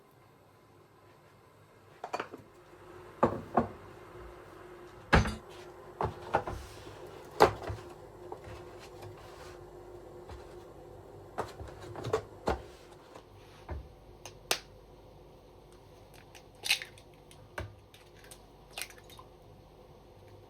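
Household handling noises in a kitchen: a series of sharp knocks and clicks of cupboards and dishes being moved, irregularly spaced, over a faint steady hum that starts about two seconds in.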